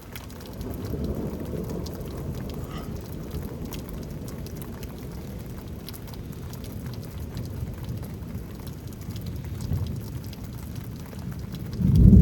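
Thunder rumbling low and steadily through rainfall, with faint drops ticking. Near the end a much louder roll of thunder breaks in suddenly.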